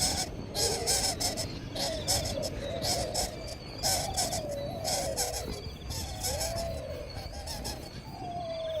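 A bird calling over and over, each call a short wavering note that slides up and down, over a harsh high hiss that comes and goes.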